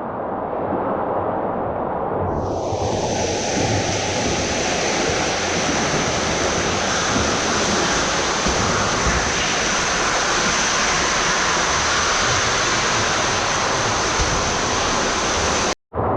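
Steady rushing, hissing noise of swimming-pool water, broken off abruptly near the end.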